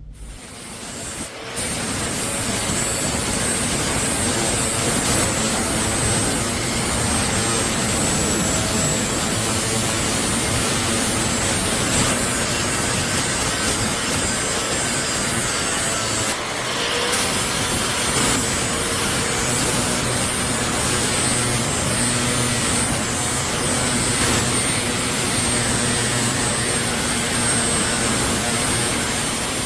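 An abrasive power tool running steadily against the rusty steel of a cleaver blade, with a continuous grinding noise and a high whine. It eases off briefly about halfway through, then stops near the end.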